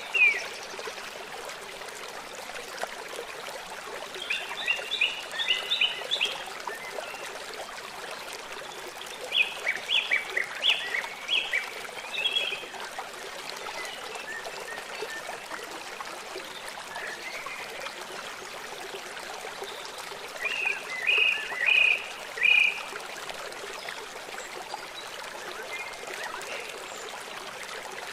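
Songbirds singing short bursts of quick high chirping notes, each phrase lasting about two seconds and repeated three times, over the steady rush of a flowing stream.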